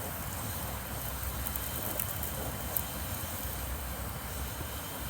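Steady low rumble of wind on the microphone, with a few faint sharp crackles from a wood fire about two seconds in.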